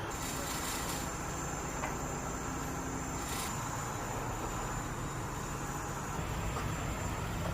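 A vehicle engine running steadily with a low hum, under a constant thin high whine.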